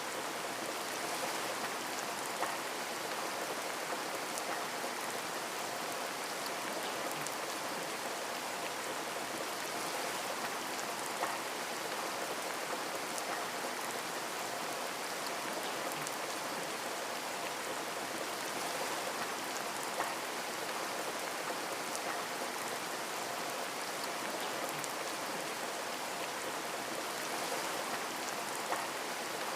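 Steady rain pattering on a window pane, with scattered individual drop ticks.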